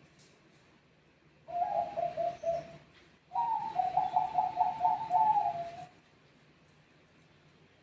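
Zebra doves (Bangkok perkutut) cooing: a short phrase of quick cooing notes about a second and a half in, then a longer phrase that steps between two pitches, ending about six seconds in.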